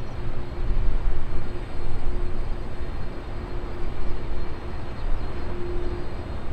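Jet aircraft engine noise at an airport: a steady, uneven rumble with a faint tone that comes and goes.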